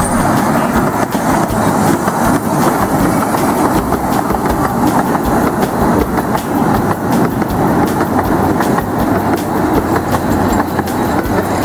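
A narrow-gauge park-railway train, a small steam locomotive and its coaches, rolling past at low speed. Its wheels click steadily over the rail joints under a continuous rumble.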